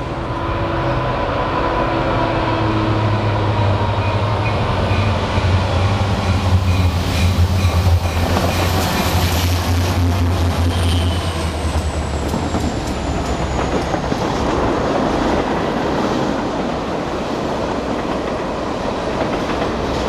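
CSX diesel freight locomotive passing close by: its engine's deep rumble builds and then fades about twelve seconds in, with wheel clicks as it goes past. A string of tank cars follows, rolling by with steady wheel noise and clickety-clack.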